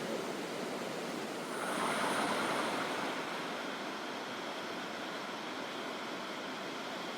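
Steady rushing of a waterfall and river, swelling briefly louder about two seconds in.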